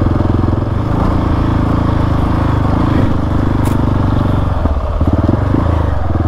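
Single-cylinder dual-sport motorcycle engine running steadily under load, its note briefly dropping and changing about three-quarters of the way through before picking up again.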